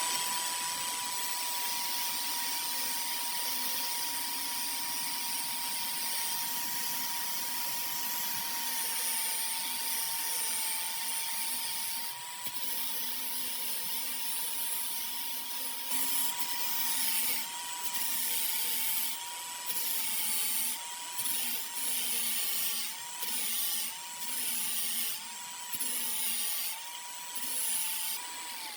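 Electric power tool motor running with a steady high whine and hiss. In the second half its pitch wavers and its level drops in short repeated dips, and at the end it winds down.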